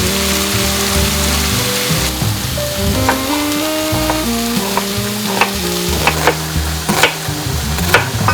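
Food sizzling as it fries in a pan, with sharp clicks and taps of a utensil stirring against the pan that come more often in the second half. Background music plays underneath.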